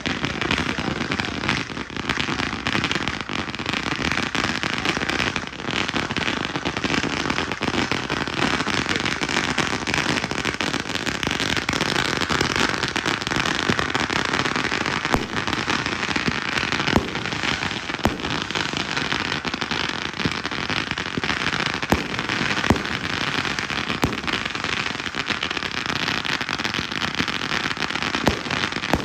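Consumer fireworks cakes going off in a continuous barrage: a dense, unbroken crackle dotted with many sharp bangs.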